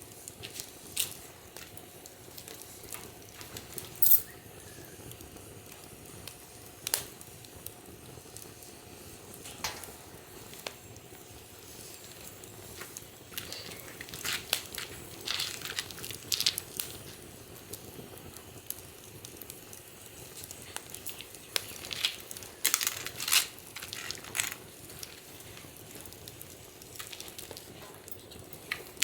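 Wood fire crackling in a fire pit, with scattered sharp pops over a faint steady hiss; the pops come thickest and loudest in the second half.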